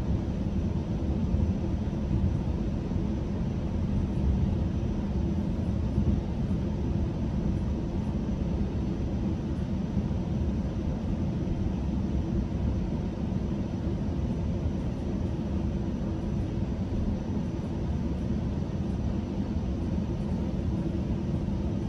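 Steady low rumble and hum inside a GO Transit bilevel coach while the train stands at a station with its doors open.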